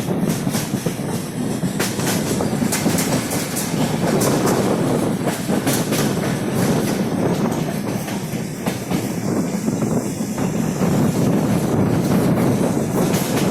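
Passenger train running at speed: a steady rumble of the coach, with the wheels clicking irregularly over the rails.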